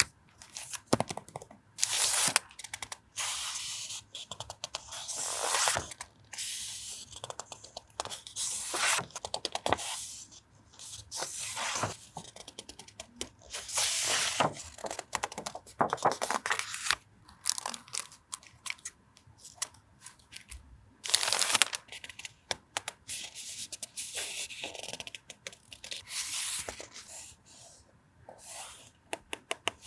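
Paper and plastic stationery packets being handled and unwrapped, rustling and crinkling in irregular bursts.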